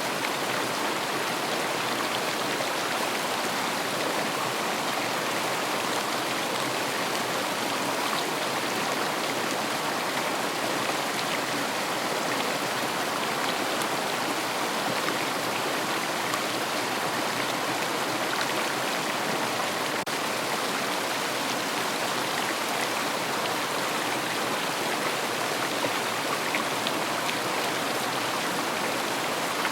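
River water rushing and splashing over stones in a steady, even stream.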